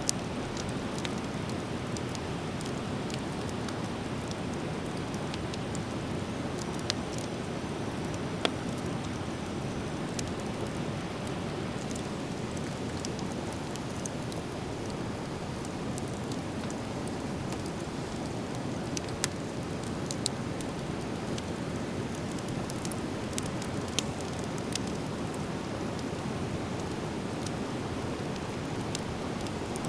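Driftwood fire crackling, with sharp pops every few seconds over a steady rushing hiss.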